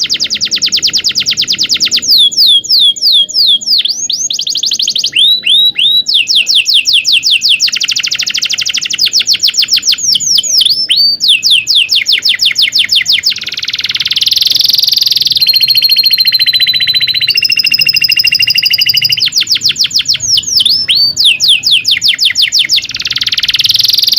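Domestic canary singing a long, unbroken song: fast rolling trills of rapidly repeated notes, broken by quick downward-sweeping chirps and, around the middle, a few held whistled notes.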